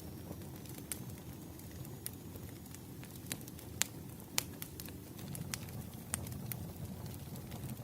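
Wood fire burning: a steady low rustle of flames with sharp pops and crackles about once a second, two louder pops near the middle.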